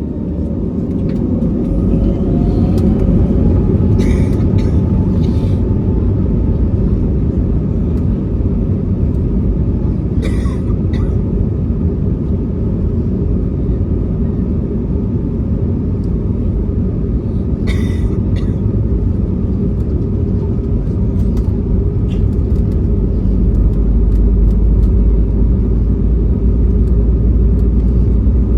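Airbus A320neo's jet engines: a steady low rumble, with a whine rising in pitch a few seconds in and the sound growing louder near the end. A few short clicks are heard around 4, 10 and 18 seconds in.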